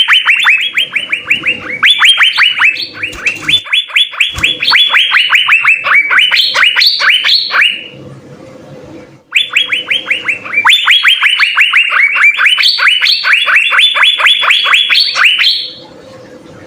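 Asian fairy-bluebird (cucak biru) singing rapid runs of falling whistled notes, about six a second. They come in two long bouts with a brief pause about eight seconds in.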